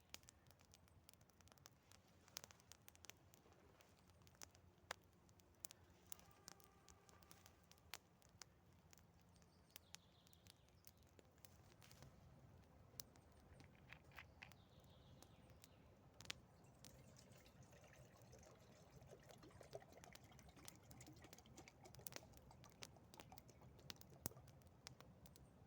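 Faint, scattered crackles and ticks from a campfire burning damp wood, irregular and quiet throughout.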